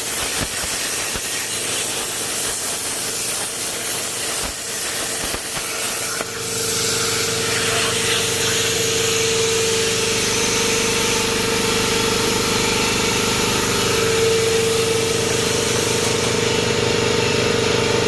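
Everlast 82i plasma cutter's torch cutting 16-gauge steel at 40 amps, with a crackling air hiss. About six seconds in, a steady mechanical hum with a clear tone rises under the hiss and grows louder.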